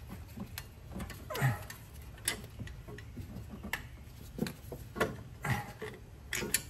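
Irregular metallic clicks, knocks and short scrapes as a loosened marine engine exhaust manifold is shifted and worked against a stud, about ten sharp hits spread unevenly.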